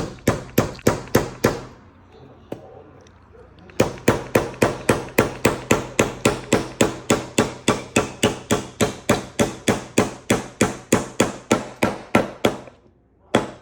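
Hammer driving a nail into a board of reclaimed lumber with quick, even strikes, about four a second. A short run of strikes is followed by a pause of about two seconds, then a long steady run that stops shortly before the end.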